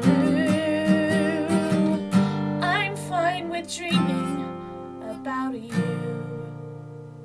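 Acoustic guitar strummed under a singing voice holding long notes with vibrato as the song closes. A final chord is struck about six seconds in and rings out, fading away.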